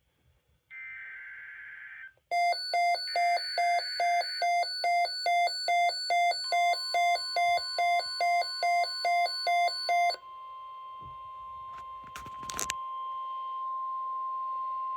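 NOAA Weather Radio alert activation. Short buzzy digital data bursts of the SAME header come first, then a receiver alarm beeps about twice a second for roughly eight seconds. A steady single alert tone of about 1050 Hz starts midway, overlaps the beeping and holds on, with a brief crackle of static near the end.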